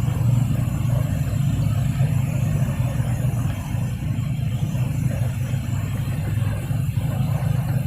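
A motor vehicle engine running steadily as a continuous low rumble, without pauses or sharp changes.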